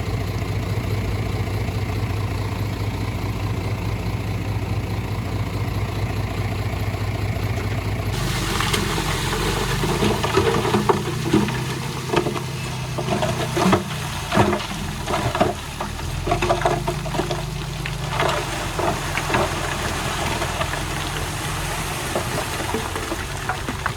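Heavy diesel construction machine engine running steadily, then changing abruptly about a third of the way in to a rougher engine note with soil and stones clattering and knocking over it for several seconds.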